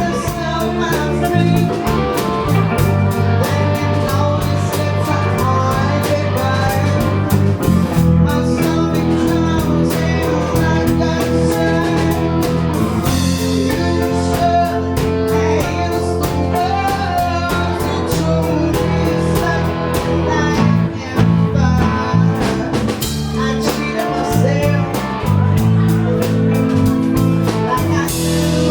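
A band playing blues-style music: guitar over drums with a steady beat, and a voice singing.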